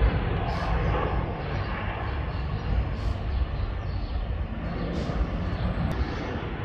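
A steady low rumble of engine noise, with a few brief faint sounds on top.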